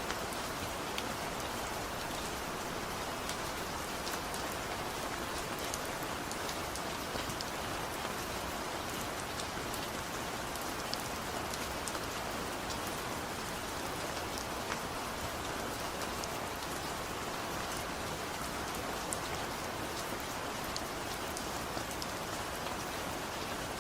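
Steady, gentle rain falling, an even hiss with many small scattered drop ticks. There is no thunder.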